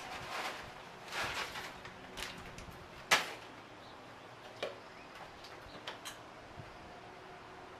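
Sunflower seed shells cracking and crunching between teeth: a few scattered sharp clicks and cracks, the loudest about three seconds in, with a little rustling in the first couple of seconds.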